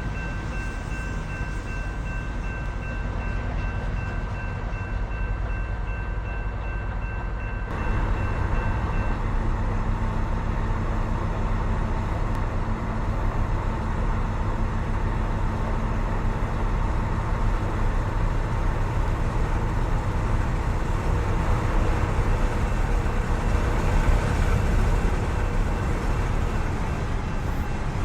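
Train running past with a steady rumble of wheels and engines, growing a little louder about eight seconds in.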